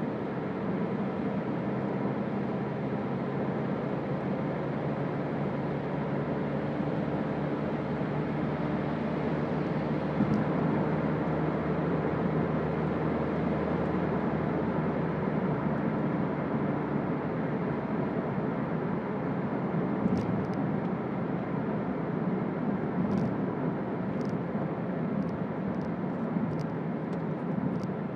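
Toyota Auris 1.4 D-4D four-cylinder turbodiesel driving at a steady pace: a continuous engine drone mixed with road and tyre noise. A few faint short ticks come in over the last several seconds.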